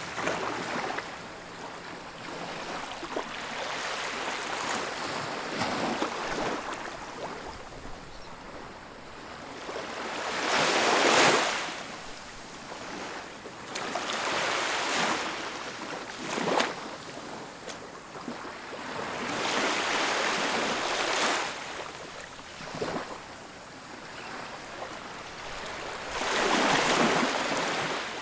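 Ocean waves breaking and washing up a beach, a steady hiss of surf that swells and fades every few seconds. The loudest surges come about ten seconds in and near the end.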